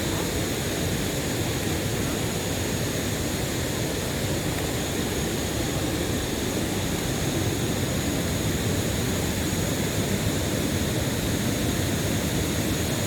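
Steady rushing roar of a waterfall and its stream, even and unbroken.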